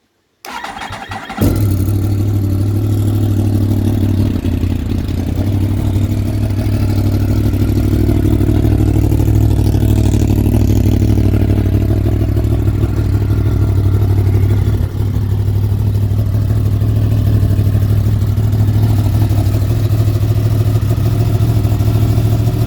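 Yamaha MT-10's crossplane inline-four turned over by the starter for about a second, catching and settling into a steady idle on a cold start.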